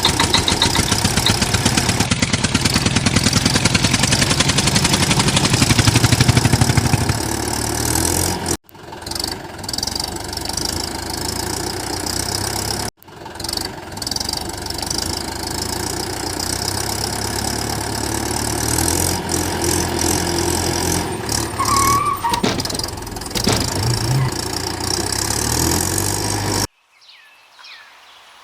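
Engine running with a rapid even firing beat, broken by two abrupt cuts about eight and thirteen seconds in, then running on rougher until it stops suddenly near the end.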